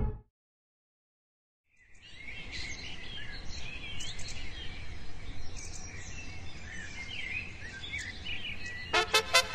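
Several birds chirping and singing over a low, steady background noise, starting about two seconds in after a silence. Near the end, music comes in with quick, evenly spaced notes.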